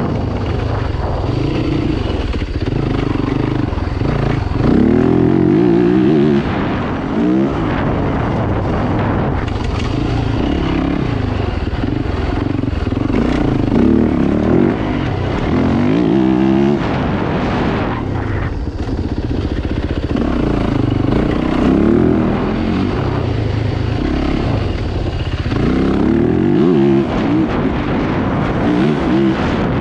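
Dirt bike engines revving hard off-road, their pitch climbing again and again as they accelerate and shift, with more than one bike running at once.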